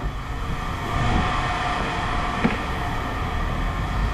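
A steady mechanical rumble with a faint constant hum on top, from an engine or machine running.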